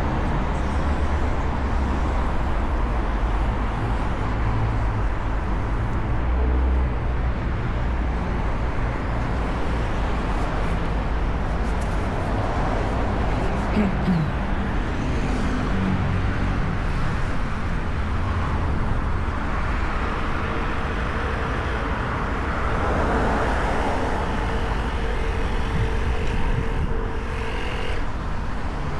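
Steady city street traffic: cars and other vehicles running past with a continuous low engine and tyre rumble. A faint steady hum from a vehicle joins in during the second half.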